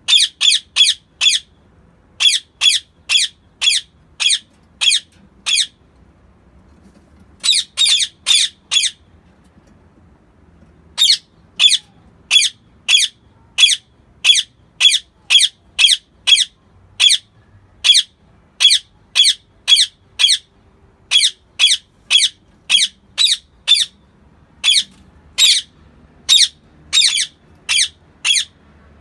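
Rose-ringed parakeet giving loud, shrill screeching calls, about two a second, in runs of several with short pauses between, the longest run filling most of the second half.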